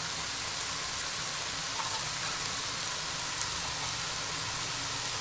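Shredded cabbage, minced chicken and vegetables sizzling steadily in a hot frying pan over high heat.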